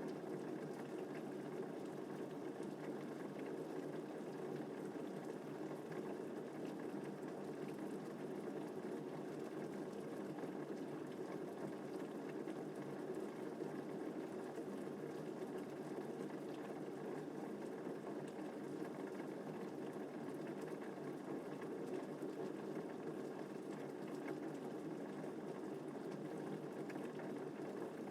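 Steady rain falling, an even hiss of water with no thunder.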